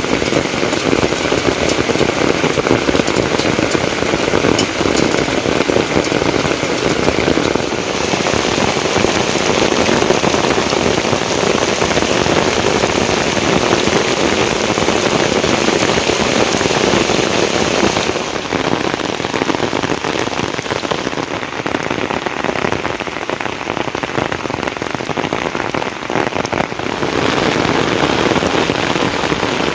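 Heavy rain falling steadily. The sound changes abruptly a few times, and is a little quieter and duller for a stretch in the second half.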